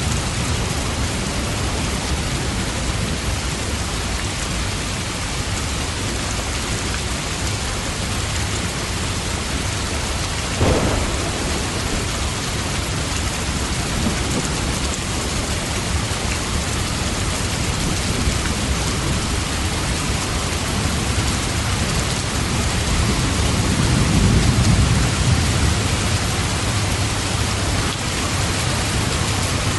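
Steady rain falling. A sharp crack of thunder comes about a third of the way in, and a low rumble of thunder swells and fades about three-quarters of the way through.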